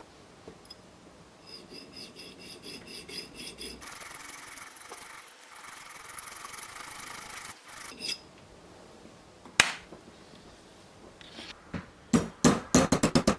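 Hand-tool work on a sterling silver box clasp. A run of rhythmic rubbing or filing strokes with a faint metallic ring gives way to a steadier rasping hiss, then a single sharp click, and near the end a quick series of loud sharp metal taps, several a second.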